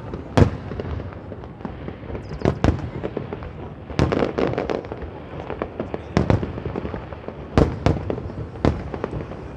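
Aerial fireworks going off: about ten sharp bangs at uneven intervals, some in quick pairs, over a steady rumble and crackle from the display.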